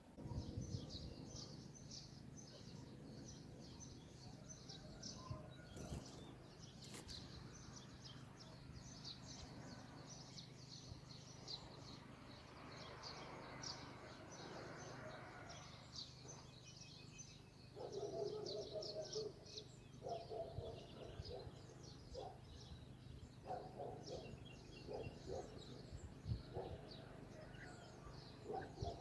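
Birds chirping in rapid, high, continuous runs. About two-thirds of the way in, lower calls join in short bursts.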